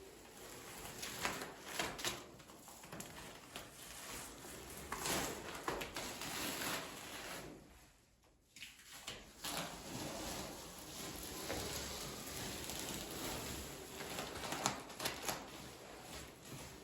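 Masking tape being peeled off painted wooden ceiling beams, giving irregular tearing and crinkling noises with short bursts. There is a brief drop-out about halfway through.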